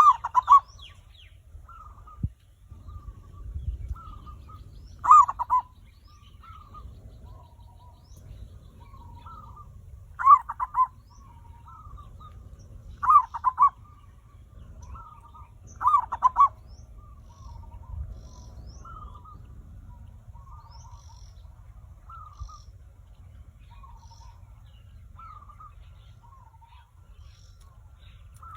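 Zebra dove (perkutut) cooing: five loud, rapidly pulsed cooing phrases a few seconds apart, with softer short cooing notes in between, over a low hum.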